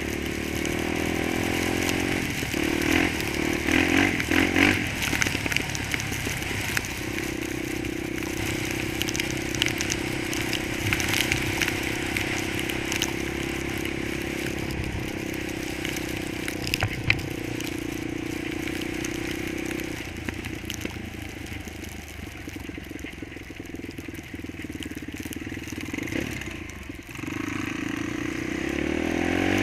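Sport quad's single-cylinder four-stroke engine running under way, revving up and down a few seconds in, then holding steady. It eases off about two-thirds of the way through and picks up again near the end, with a crackling, crunching noise over it.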